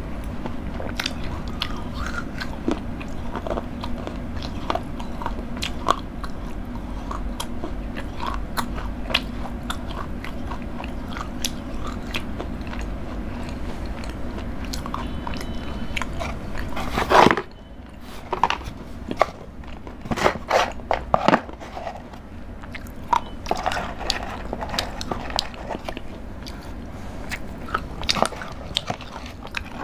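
Close-up eating sounds of Cadbury Dairy Milk chocolate being bitten and chewed: a steady run of small crisp clicks and crunches that grow busier and louder in the second half. There is one loud thump a little past halfway.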